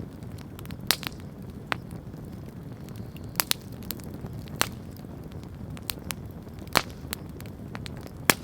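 Wood campfire crackling, with irregular sharp pops of burning wood over a low steady rush. The loudest pop comes just before the end.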